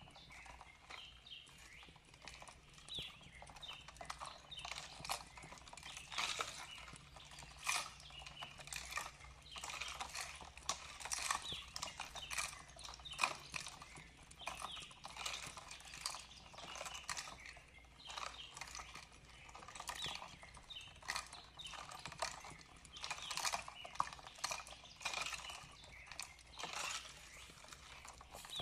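Wood fire crackling, a steady run of irregular sharp pops and snaps.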